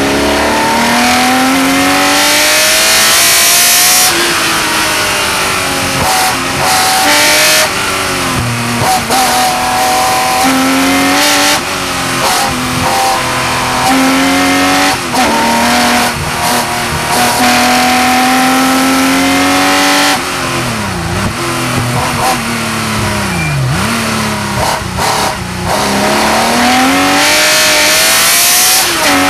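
Porsche 911 Carrera RSR's flat-six racing engine heard from on board, accelerating hard through the gears: the revs climb steadily, drop briefly at each upshift and climb again. About two-thirds of the way through the revs fall sharply twice and pick up again as the car slows and downshifts, then it pulls hard once more.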